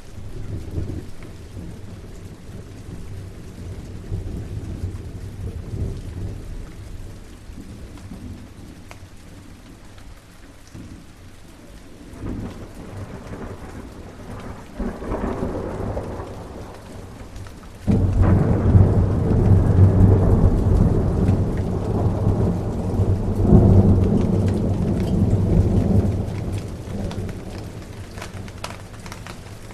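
Steady rain with rolling thunder. A low rumble swells partway through, then a loud peal of thunder breaks suddenly a little past halfway and rolls on for several seconds before easing back to the rain.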